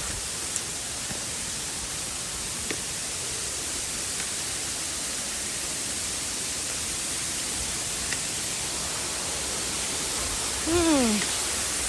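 Waterfall rushing: a steady, even hiss of falling water, with a brief voice-like call falling in pitch near the end.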